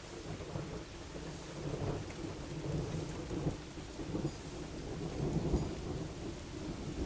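Thunder rolling over steady rain, swelling in the first second or so and rumbling on with crackling peaks.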